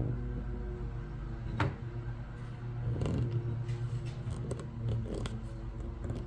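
Hand tool working old paint and finish off a surface: a sharp click about a second and a half in, then a few separate short scraping strokes, over a steady low hum.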